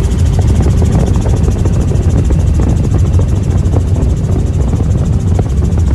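Helicopter running steadily: a loud, even low rumble of turbine and rotor with a fast regular beat from the blades.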